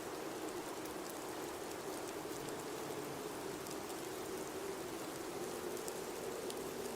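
Blizzard ambience: a steady rush of high wind with a low, slowly wavering tone under it, and a few faint ticks.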